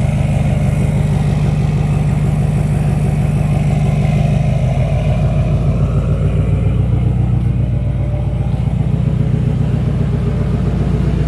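Emissions-deleted LML Duramax 6.6 L V8 turbo-diesel idling loud and cold just after a cold start, with the fuel lift pump grinding away. Its note drops slightly a little under halfway through.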